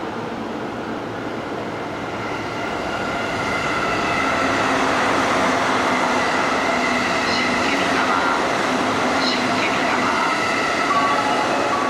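Electric commuter train running past a station platform, growing louder over the first few seconds and then steady, with several steady high tones over the running noise.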